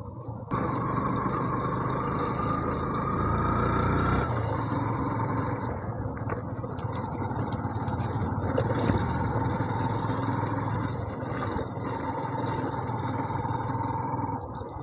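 Yamaha FZ V2 motorcycle's single-cylinder engine pulling up a rough track, its note rising over the first few seconds and dropping about four seconds in, then running steadily, with a few clicks and rattles along the way.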